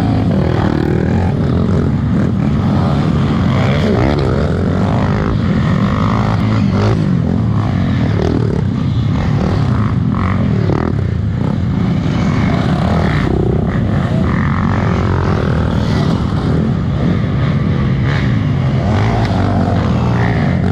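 Off-road trail motorcycle engines running hard, their pitch rising and falling repeatedly with the throttle.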